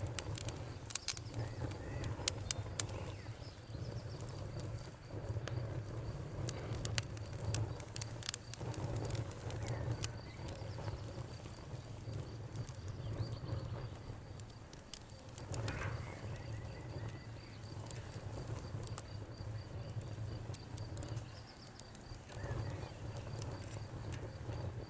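Wood fire burning, with scattered sharp crackles and pops over a low steady rumble of the flames, and a cricket trilling steadily high in the background.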